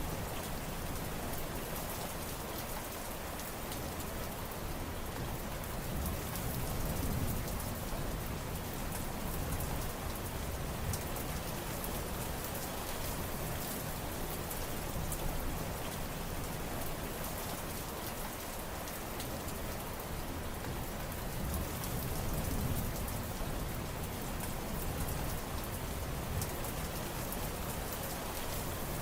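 Steady rain falling, a dense patter of drops on surfaces with a continuous hiss, swelling slightly now and then.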